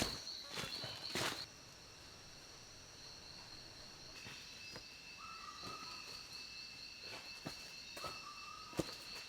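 Rainforest insects trilling steadily in a high, fast-pulsing drone, with a second steady tone joining about four seconds in and a few short repeated calls from another animal. Scattered snaps and rustles, the loudest a crackling burst about a second in, as of footsteps or handling of brush.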